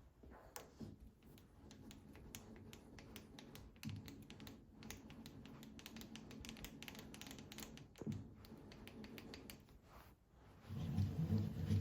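Emco Maximat Super 11 metal lathe: many irregular light clicks and ticks over a faint low hum, then near the end the geared headstock starts running with a much louder steady low drone.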